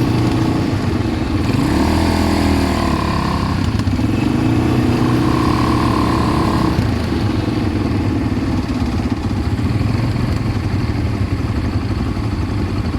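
ATV engine running while being ridden, its pitch dipping and rising again about two seconds in. After about seven seconds the steady engine note gives way to a rougher, noisier rumble.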